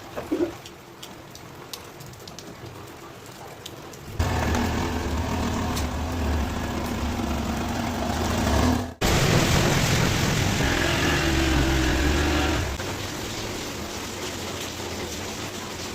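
Motorcycle engine running under a steady rushing noise that starts suddenly about four seconds in, cuts out for an instant near the middle, and eases in level later on.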